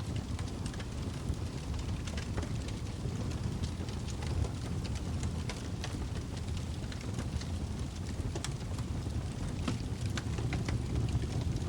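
Log fire burning in a fireplace: a steady low rush of flames with frequent sharp crackles and pops from the burning wood.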